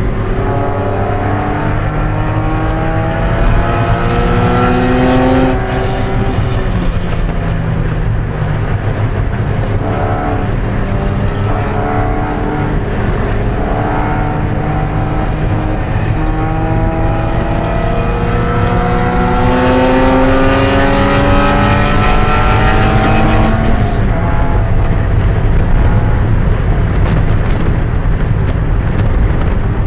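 1995 Mazda Miata's 1.8-litre four-cylinder engine pulling hard on track. The engine pitch climbs through the revs and drops back at each gear change several times over, with a steady rush of tyre and road noise underneath.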